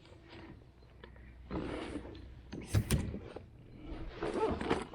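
Fishing gear being handled: irregular rattles and scrapes, with a cluster of sharp clicks and knocks about three seconds in that is the loudest part.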